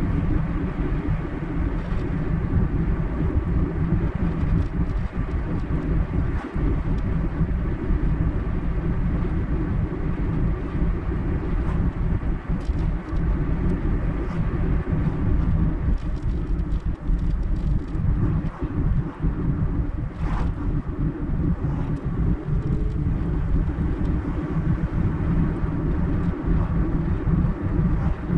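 Car driving at a steady speed: engine and tyre road noise, a continuous low rumble.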